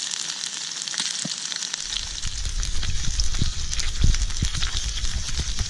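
Fish fillets and chips sizzling in olive oil in a steel pan over a campfire: a steady hiss with many small spitting crackles. A low rumble joins about two seconds in.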